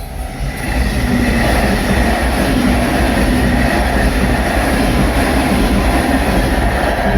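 JR Shikoku electric train rushing through a railway level crossing, its wheels and cars making a loud, steady rumble that builds about half a second in. The crossing's warning bell keeps ringing underneath.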